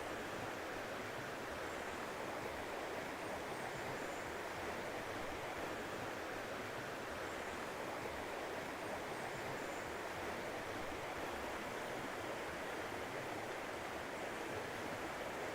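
Steady rushing of running water, an even unbroken wash of sound, with a few faint high chirps now and then.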